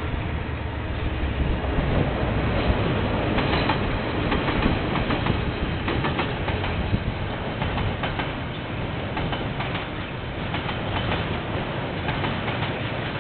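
KiwiRail train rolling past, a steady rumble of wheels on the rails with irregular clicks and clatter, heard through a security camera's microphone.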